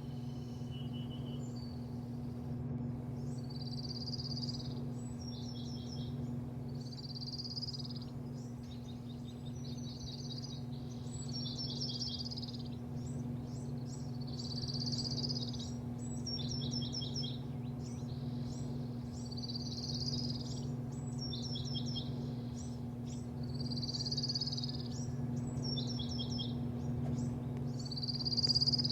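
A songbird singing the same short, high, warbling phrase again and again, each ending in a quick run of notes, about every two to three seconds. A steady low hum runs underneath.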